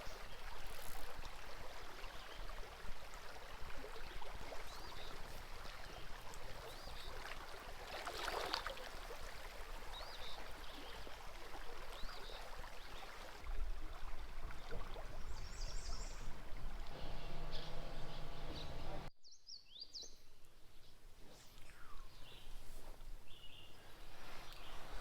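Steady rush of a flowing stream with scattered bird chirps over it. About three-quarters of the way through, the water sound cuts off abruptly, leaving quieter outdoor ambience with a few more bird calls.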